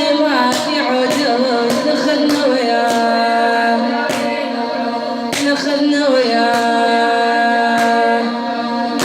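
A woman singing a Shia latmiya lament in long, drawn-out lines, with sharp strikes of chest-beating (latm) recurring through it.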